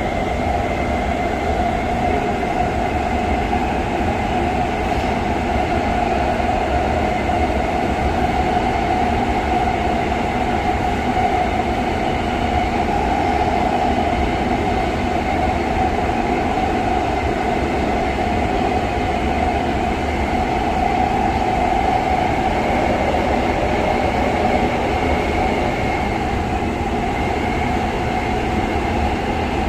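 Skoda Varsovia metro train running between stations, heard from inside the car: a steady rumble with a steady whine over it.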